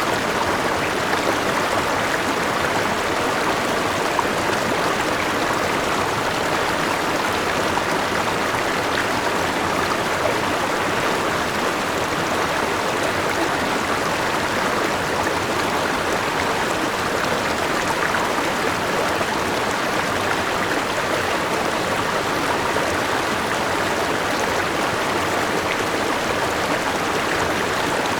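Forest river running over a small waterfall: a steady, even rush of water.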